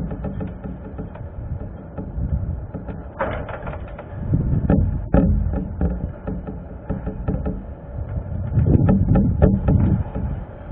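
Strong gusty wind buffeting the microphone, a low rumble that swells and drops, with scattered short knocks and rattles.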